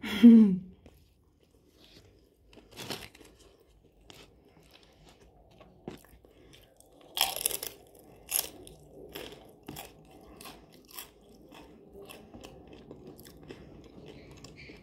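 A person chewing a mouthful of steak burrito: wet mouth clicks and smacks, with a few louder crunches between about seven and eight and a half seconds in.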